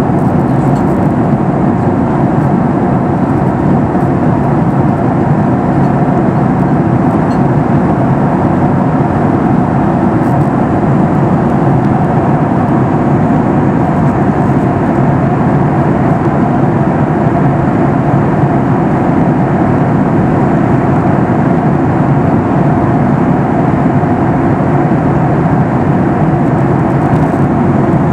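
Steady, loud cabin noise inside a Boeing 737 MAX 8 in flight: air rushing along the fuselage together with the even drone of its CFM LEAP-1B engines, unchanging throughout.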